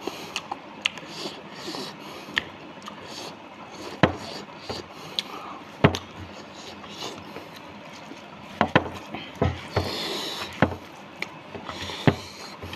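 Close-up mouth sounds of a man eating rice by hand: chewing and lip smacking, with scattered sharp wet clicks over a soft rustle.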